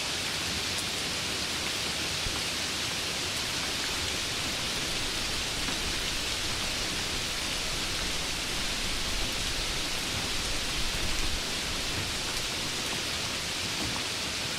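Steady rain, an even hiss, with a low rumble underneath that swells slightly about ten seconds in.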